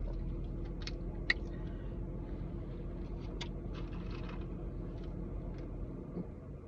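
Steady low hum inside a parked car, fading near the end, with scattered small clicks and smacks of someone eating.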